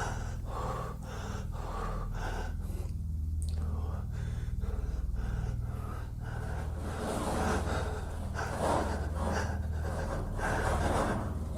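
A person breathing hard and gasping in fright: quick short breaths about two a second, turning into longer, louder breaths over the last few seconds, over a steady low hum.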